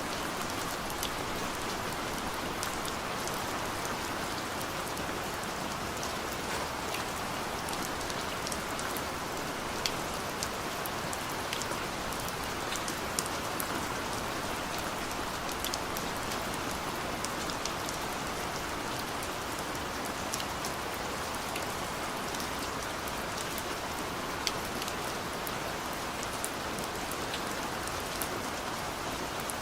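Heavy rain pouring steadily, a constant hiss of rainfall with many scattered sharp drop ticks and splats on a surface.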